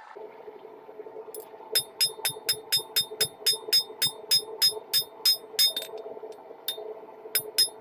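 Hand hammer striking hot rebar on an anvil in a quick, even rhythm of about four ringing blows a second while the knife handle is drawn out. The blows pause for about a second and a half, then resume near the end, over a steady hum.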